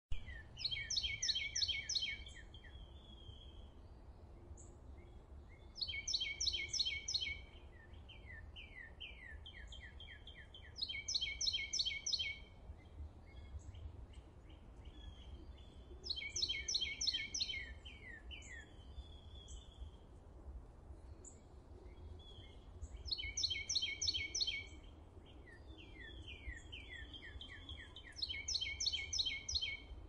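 A songbird singing a loud phrase of rapid repeated high notes about every five seconds, six times, with quieter chirps and short slurred calls between phrases. A low, steady background rumble runs underneath.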